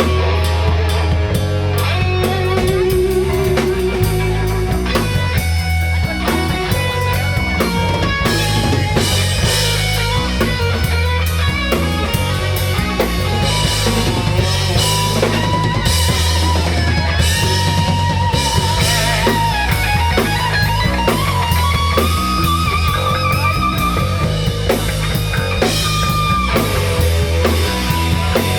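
Live rock band playing with electric guitar, bass guitar and drum kit. In the second half the lead guitar plays long held notes with vibrato over a steady beat.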